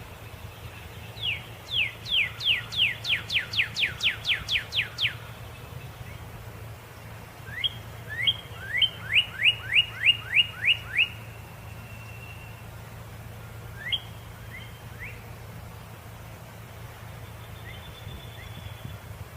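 Northern cardinal singing. First comes a run of about a dozen quick down-slurred whistles that speed up; after a pause there is a second phrase of slurred notes ending in a short held whistle, then a few scattered notes. A steady low hum lies underneath.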